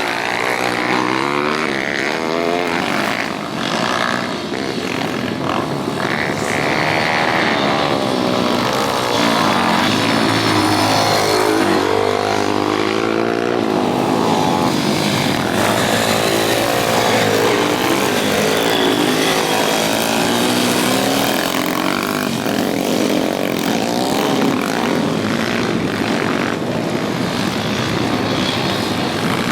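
Several pit bike engines, small four-stroke singles, revving hard and overlapping as the bikes race round the track, each one rising and falling in pitch as the riders shift and throttle through the corners.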